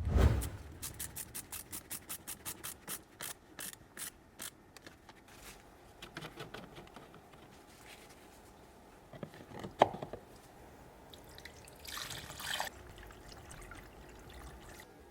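Liquid being poured in quick regular glugging pulses, like coolant pouring from a bottle, with a knock at the start, another sharp knock about two-thirds through and a brief scraping clatter near the end.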